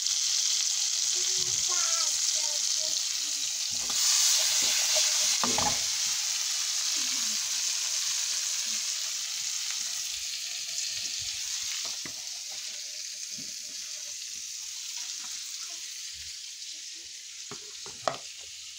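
Pork loins sizzling in hot oil in a frying pan, a steady frying hiss that swells about four seconds in and slowly fades over the second half. A few short knocks of utensils and dishes, the sharpest near the end.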